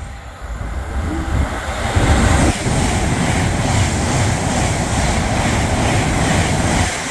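Avanti West Coast Class 390 Pendolino electric train passing through non-stop: a loud rush of wheels on rail and air. It builds over the first two seconds, holds, then drops off near the end.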